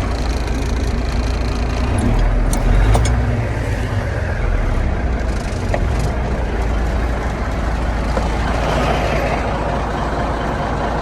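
1990 International truck's engine running steadily, its low rumble swelling briefly about two to three seconds in, with a few light clicks.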